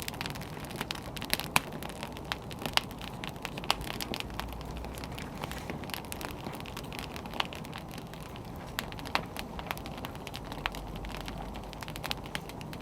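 Wood fire burning with a steady low hiss and irregular sharp crackles and pops from the burning logs.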